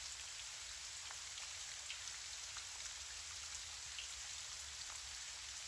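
Gentle rain falling steadily: a soft, even hiss with faint scattered drop ticks.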